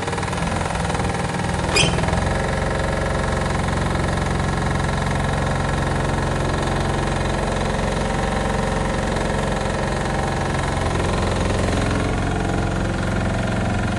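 Yanmar diesel engine of a tracked high-tip dumper running steadily, with a single sharp clank about two seconds in.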